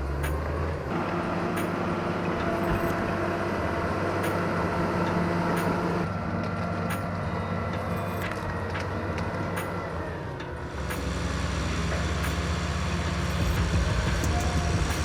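Heavy logging tractor's engine running under load as it pulls, a steady drone whose tone shifts partway through and dips briefly near the end before picking up again.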